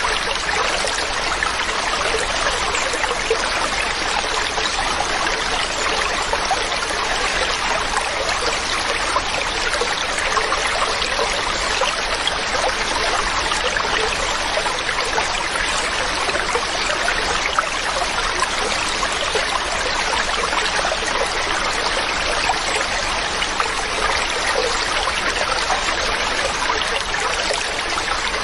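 Mountain stream running: a steady rush of flowing water that does not change.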